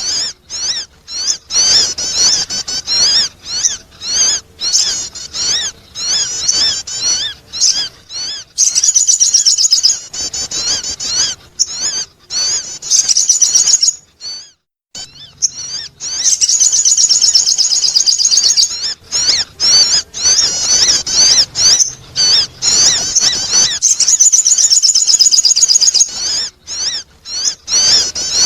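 Sogon bird song used as a lure call: long runs of rapid, high, wavering chirps repeated over and over, broken by short gaps and one brief silence a little past halfway.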